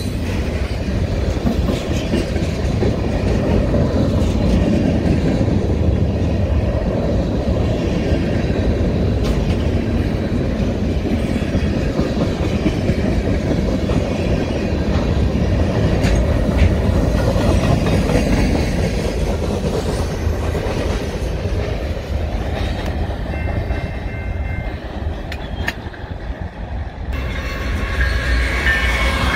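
A freight train of tank cars and covered hoppers rolling past: a steady low rumble of steel wheels on rail, with faint clicks of wheels over the rail joints. Near the end the sound changes abruptly, with a few high tones over the rumble.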